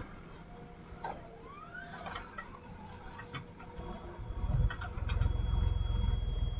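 Diesel engine of heavy machinery running, with scattered clicks, clanks and a short rising squeal of working metal parts; the engine rumble grows much louder about four and a half seconds in.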